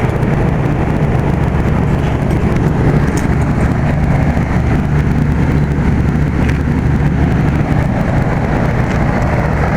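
Outdoor central air-conditioner condensing units running: a steady low hum with an even rush of fan noise over it.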